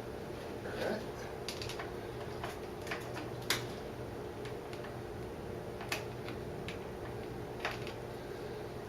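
Scattered light clicks and taps of hand tools on metal as the motorcycle's rear chain and master link are worked on, a handful of irregular clicks over a steady low hum.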